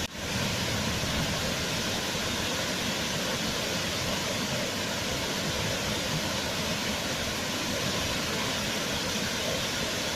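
Waterfall: a steady, even rush of falling water, with a momentary dip in level right at the start.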